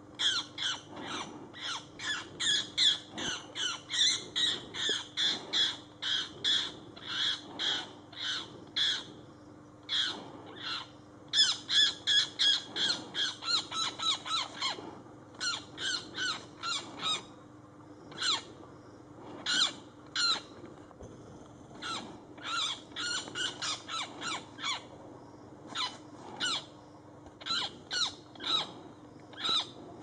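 A bird's short, harsh calls repeated rapidly, about two to three a second, in runs with short breaks: distress calls from a black-and-white bird pinned down by a young hawk.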